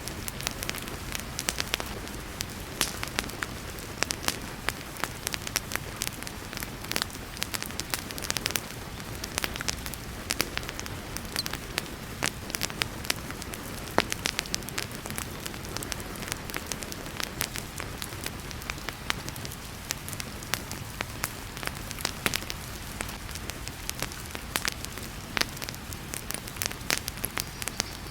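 Wood fire crackling and popping in a fireplace, with many sharp irregular snaps, over a steady hiss of heavy rain.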